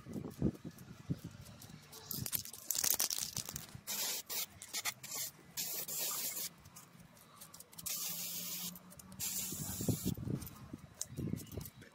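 Repeated bursts of spray hiss, each lasting up to about two seconds, with short gaps and low knocks and handling noises in between.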